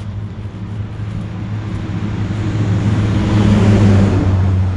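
A motor vehicle passing by: its noise swells to a peak about three and a half seconds in and then fades, over a steady low hum.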